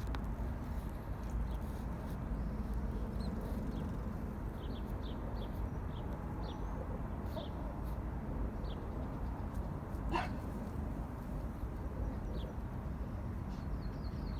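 Birds chirping: short high chirps scattered throughout over a steady low background noise, with one louder call about ten seconds in.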